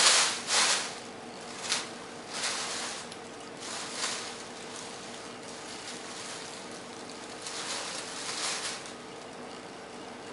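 Plastic carrier bags crinkling and rustling in irregular bursts as a cat moves about in them, loudest at the start, with quieter spells between. A faint steady hum runs underneath.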